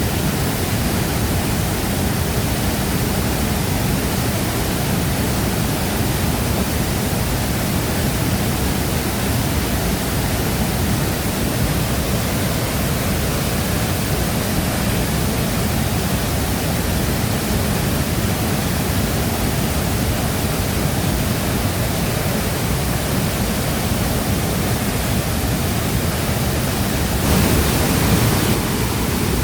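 Shifen Waterfall's water crashing down in a steady, dense rush, with a brief louder swell near the end.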